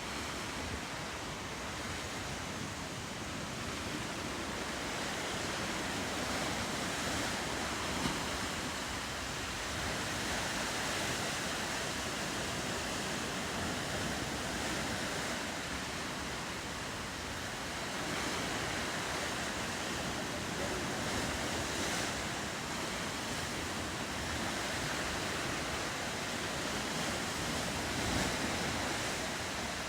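Ocean surf washing against the coast in a steady hiss that swells and eases slowly, with some wind on the microphone.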